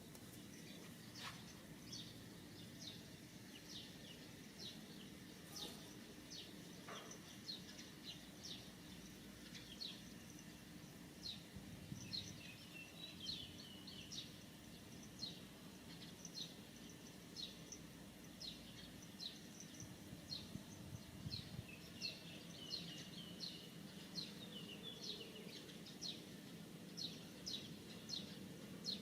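Birds chirping: many short, high chirps repeated again and again, faint against a low steady hum and outdoor background noise.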